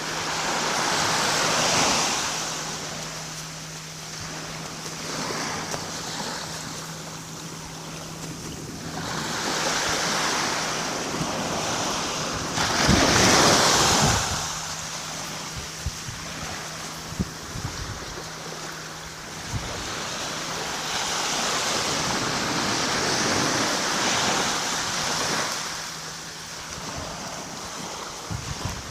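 Small waves of a calm sea washing onto the shore, each one swelling and fading with quieter gaps between; the biggest breaks about halfway through. A faint steady low hum sounds underneath for much of the time.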